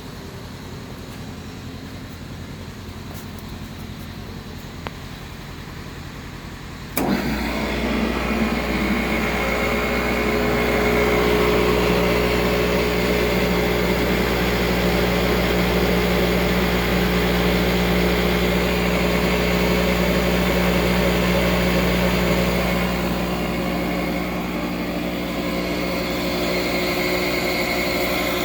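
Northfield #4 industrial table saw's 5 hp three-phase motor switched on with a sudden start about a quarter of the way in. It comes up to speed over a few seconds and then runs steadily with a steady hum, spinning without cutting.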